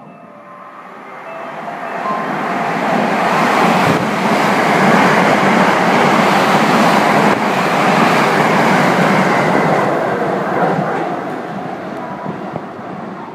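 JR West 683 series limited express electric train passing close by along the platform. The rush and rumble of its wheels and running gear builds over the first few seconds, holds loud for about six seconds, then fades as the train goes by.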